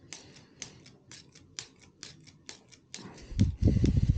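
Arrow shaft being turned in a hand taper tool, the blade shaving the end in short, crisp scraping strokes about two to three times a second. The 23/64 shaft is a very tight fit in the tool. Near the end a louder, low rumbling handling noise starts up over the strokes.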